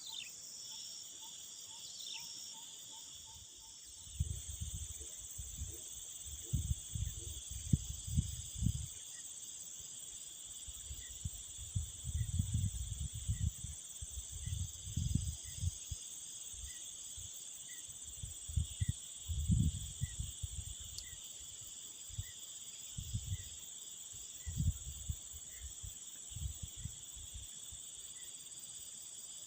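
Steady chorus of crickets, with wind buffeting the microphone in irregular low gusts from about four seconds in.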